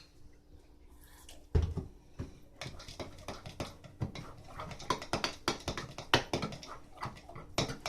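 Utensil knocking and clicking against a bowl as slime is stirred: a thump about a second and a half in, then a run of irregular taps.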